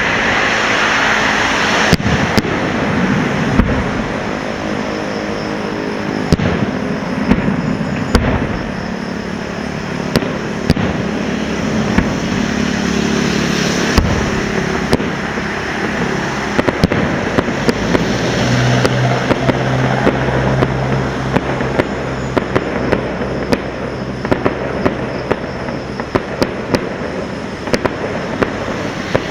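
Fireworks being set off: a steady hissing fizz with many sharp cracks and bangs scattered through it. A low hum joins for a few seconds past the middle.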